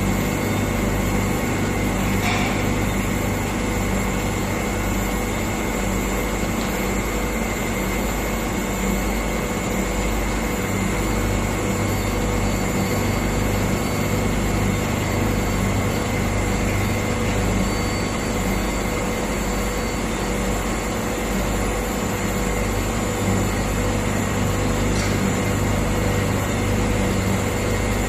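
Internal and external cylindrical grinding machine running steadily: a constant hum with a steady whine above it, and a faint click about two seconds in and again near the end.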